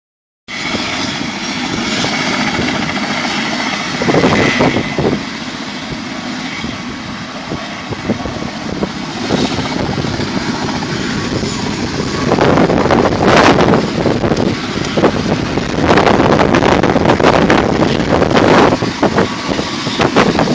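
Helicopter running as it takes off, with strong wind buffeting the microphone in loud gusts about four seconds in and again from about twelve seconds on.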